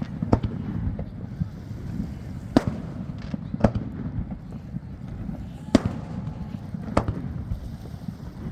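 Aerial fireworks shells bursting: about five sharp bangs at irregular gaps of one to two seconds, over a steady low background noise.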